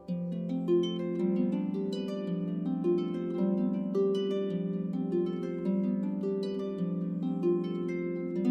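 Solo harp music: plucked strings in a flowing run of notes about two a second over ringing lower notes.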